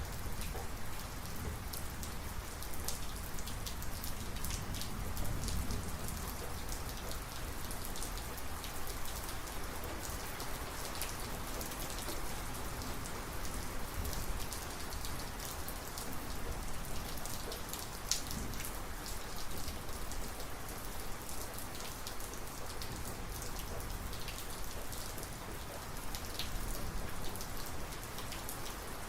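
Steady heavy rain falling, with many individual drops clicking sharply close by. A low rumble sits underneath during the first several seconds.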